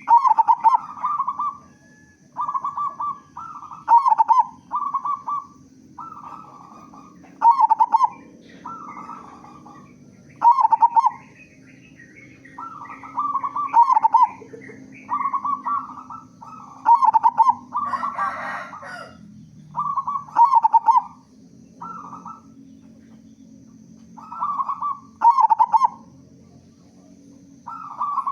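Zebra dove (local perkutut) singing: short phrases of rolling coos on much the same pitch, repeated every two seconds or so. A brief rasping noise comes about two-thirds of the way in.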